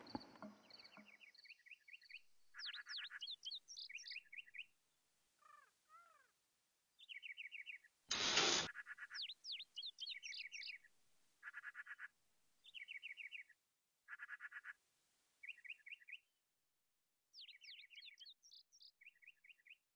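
Faint birdsong: small birds chirping in short, repeated phrases of quick trills and rising chirps. A brief burst of noise a little after eight seconds in is the loudest moment.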